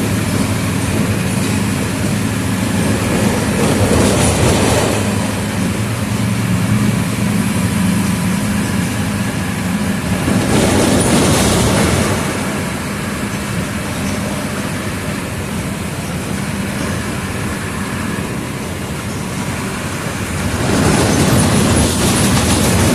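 Mercedes-Benz OF 1722M city bus under way: its front-mounted diesel engine runs with a steady low hum, mixed with road and body noise. The sound swells louder three times, about four seconds in, around eleven seconds and near the end.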